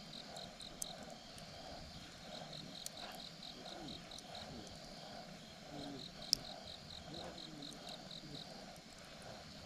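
Campfire burning with a few sharp pops from the wood, the loudest just past the middle. Over it a cricket chirps in a pulsed trill of about four or five chirps a second, pausing for a few seconds after the start.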